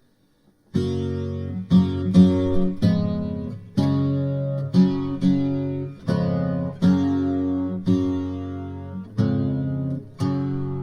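Background music on acoustic guitar: plucked chords roughly once a second, starting just under a second in.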